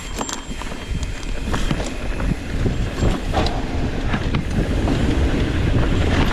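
Mountain bike riding fast down a rough dirt trail: knobby tyres rolling over dirt and rocks, with the chain and frame rattling and clicking over the bumps and wind rumbling on the microphone. The rumble grows louder as the bike picks up speed.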